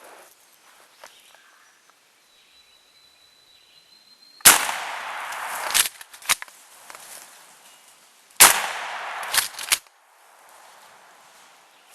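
A shotgun fired twice at a turkey gobbler, the shots about four seconds apart. Each blast is followed by about a second of loud noise before it dies away.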